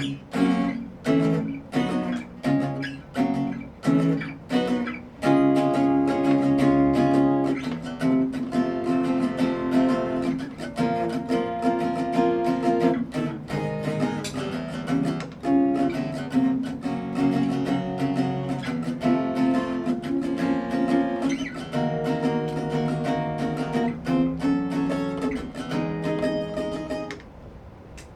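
Unamplified acoustic guitar playing a song's intro: a few separate strummed chords at first, then steady strumming of chords. There is a short lull near the end.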